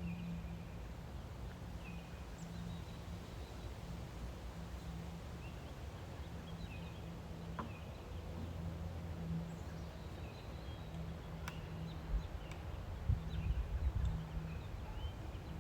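Outdoor ambience with small birds chirping now and then over a low, wavering hum, and a low rumble with louder peaks about twelve to fourteen seconds in.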